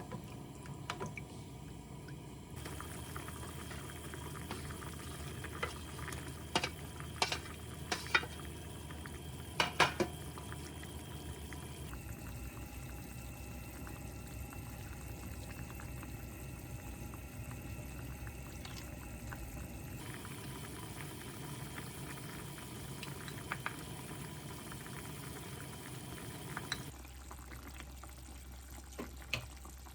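Water running and bubbling, with a few sharp clinks clustered about six to ten seconds in. The background changes suddenly several times.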